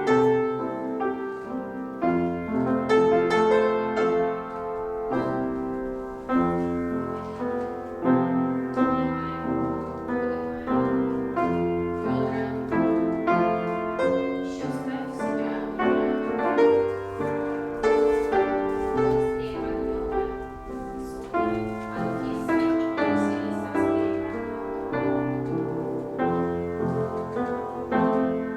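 Piano playing classical-style ballet class accompaniment: a run of chords and melody notes with a regular, even pulse.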